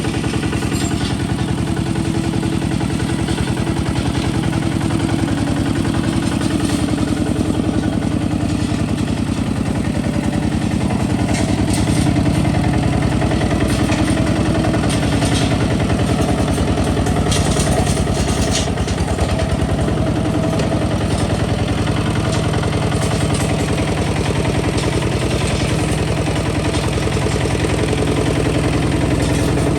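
Kubota ZT 155 DI single-cylinder diesel engine of a hand tractor running steadily with an even, rapid firing beat, a little louder from about twelve seconds in.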